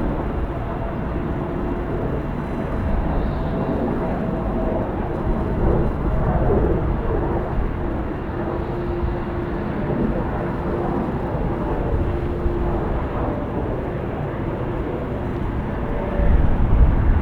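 Jet airliner engines: a steady rumble with faint humming tones, swelling louder near the end.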